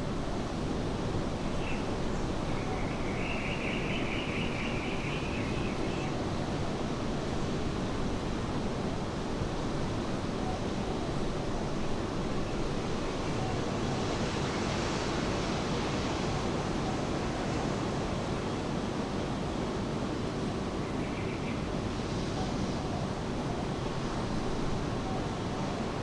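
Steady rain falling, blended with the wash of surf on a beach, as an even hiss without breaks.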